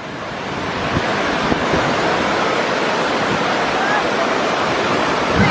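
Steady rush of a fast, swollen floodwater river, building up over the first second and then holding loud, with some wind buffeting the microphone.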